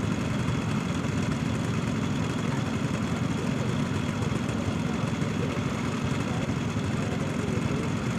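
Diesel-electric locomotive engine running steadily at a low, even drone.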